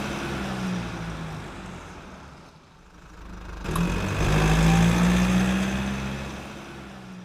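Motor vehicle engine running. It is loud at first and fades, then swells up again about four seconds in and fades once more.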